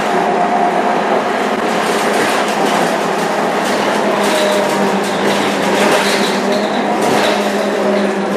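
Scania K230UB Euro 4 city bus heard from on board while under way: steady engine and drivetrain noise with road noise and rattles. The engine note shifts in pitch, and a high whine comes and goes in the middle.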